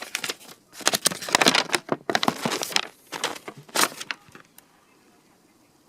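Plastic bag crinkling and rustling in bursts as it is handled, stopping about four seconds in.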